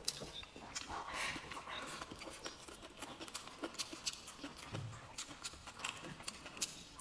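Close-up chewing of a mouthful of pork and fried rice: irregular wet clicks and smacks of the mouth, several a second.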